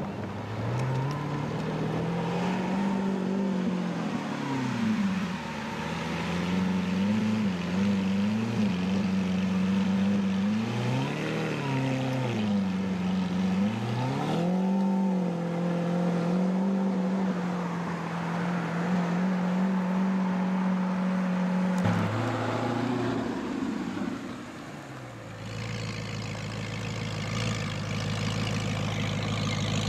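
A high-performance car engine running and being revved, its pitch rising and falling several times, then holding steady. About three quarters of the way through it drops to a lower, steady note.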